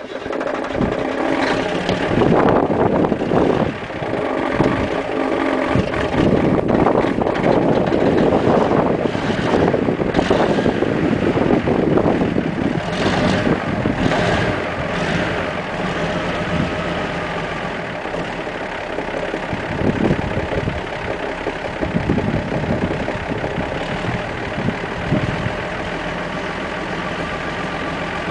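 Volvo truck's diesel engine catching on a cold start after sitting about three weeks, with the block heater plugged in and no ether. It runs loud and uneven for about fifteen seconds, then settles into a steadier idle.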